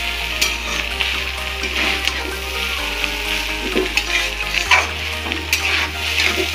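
Chow mein noodles sizzling in a hot pan as they are stir-fried, with a spatula clicking and scraping against the pan again and again.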